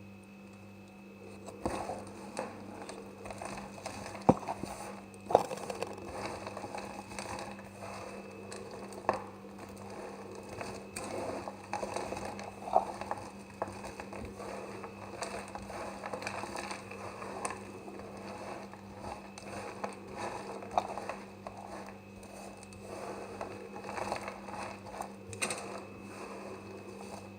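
Knife cutting semi-dry soap: a running string of crackles and light clicks, with a few sharper snaps, over a steady low hum.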